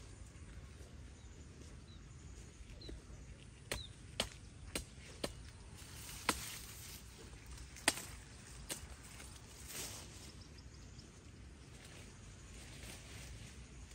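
A series of sharp knocks, about seven of them spaced irregularly over some five seconds, the loudest about eight seconds in.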